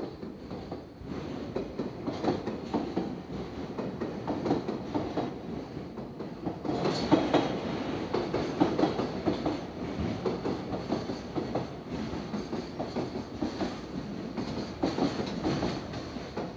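JR Freight train hauled by an EH500 electric locomotive rolling past, its wagons' wheels clacking over the rail joints in a continuous rumble. It gets louder about seven seconds in.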